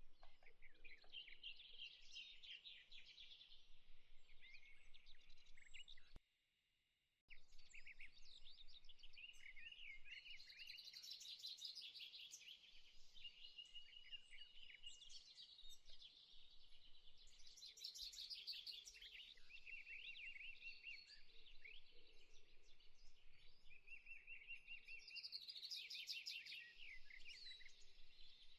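Faint birdsong: several birds giving quick chirps and trills, with a few held whistled notes. It cuts out for about a second about six seconds in, then resumes.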